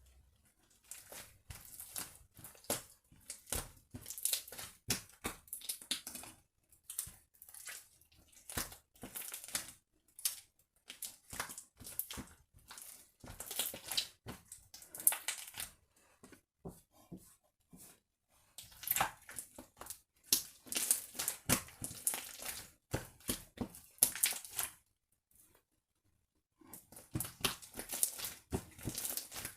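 Slime being kneaded and stretched with lightweight air-dry clay mixed in: a stream of sticky crackling, popping and squishing sounds that stops briefly twice.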